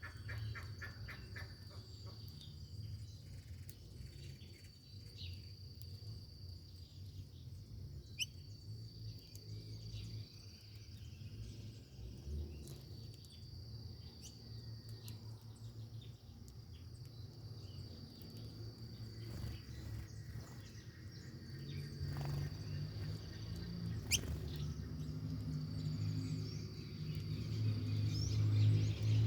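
Steady high-pitched insect trill, cricket-like, running on with short breaks, with a few brief bird chirps and a low rumble underneath that grows louder near the end.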